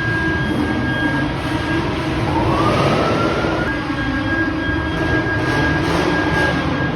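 Loud, steady vehicle noise with a low rumble, and a rising whine about two seconds in that climbs for about a second and then holds.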